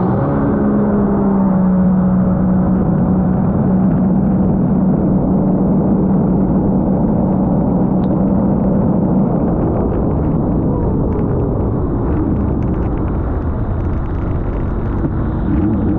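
Sea-Doo GTR 230 personal watercraft running under way, its Rotax three-cylinder engine holding a steady pitch for the first several seconds, then fading into a steady rumble.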